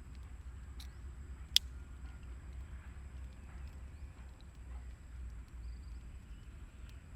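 Steady low outdoor rumble with one sharp snap about one and a half seconds in, and a few fainter ticks.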